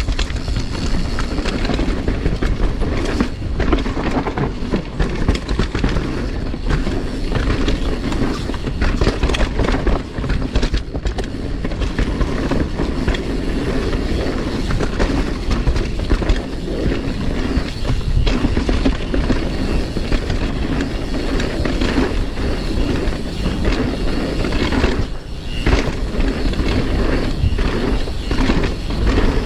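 Mountain bike rolling fast down a dirt trail: a continuous rush of tyres on the ground, with the bike rattling and clattering over rough terrain.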